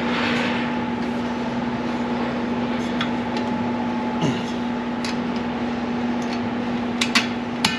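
A steady mechanical hum with a haze of noise, broken by a few short, light clicks about three seconds in and several more near the end.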